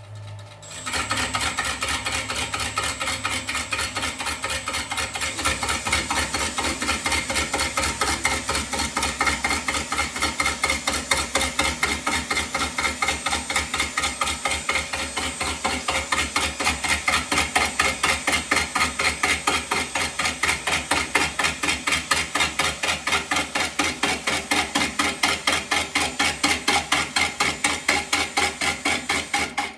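Lathe cutter turning the inside of a wooden snare drum shell, with a rapid, even knocking of several strikes a second as the spinning shell meets the tool. It starts about a second in and cuts off suddenly at the end.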